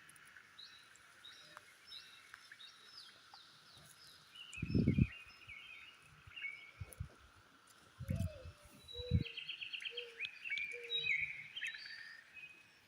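Small birds chirping and singing repeatedly in the background, with dull low thumps about five, eight and nine seconds in.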